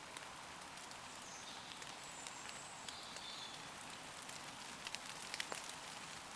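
Steady rain falling on leaves, with a cluster of sharper, nearer drips about five seconds in. A few faint, high bird calls sound about halfway through.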